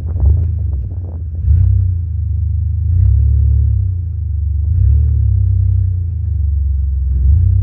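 A vehicle engine idling, a low steady rumble that swells and eases slightly every second or two.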